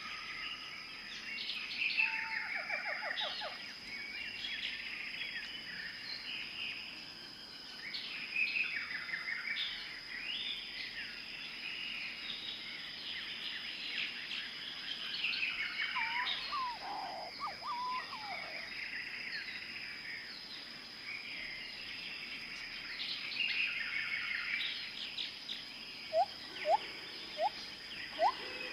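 Several birds chirping and trilling over one another in a dense chorus, over a steady thin high tone. Near the end come a few louder, short upward-sweeping calls.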